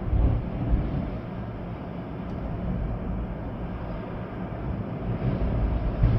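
Storm wind gusting with rain, a steady low rumble that swells in gusts about half a second in and again near the end.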